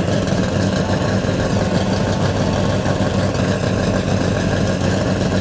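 Car engine idling steadily and loudly with a low, even rumble.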